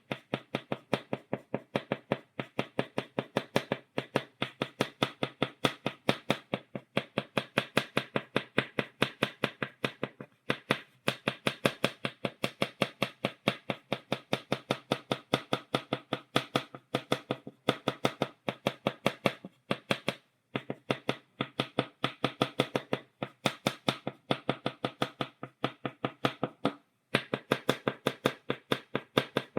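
Stick of chalk tapping against a blackboard in quick, even dots, about four taps a second, with a few brief pauses.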